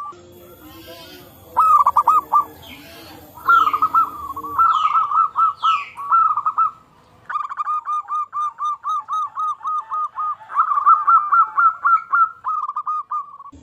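Zebra doves (perkutut) cooing in fast runs of short repeated notes, two or more birds answering and overlapping each other. A few quick falling higher-pitched calls from another bird come in the first half.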